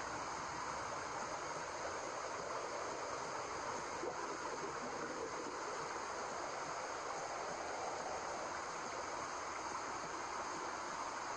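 Steady white noise: an even, unbroken rushing hiss with no beat or rhythm.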